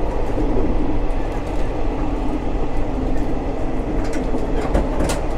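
Kawasemi Yamasemi diesel railcar running along the line: a steady low rumble, with a few sharp clicks near the end.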